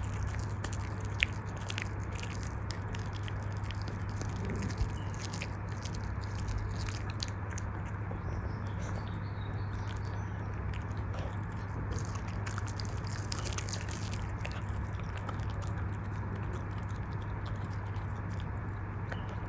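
A dog chewing and gnawing a dental chew bone: many irregular small crunching clicks, with three sharper bites standing out, over a steady low hum.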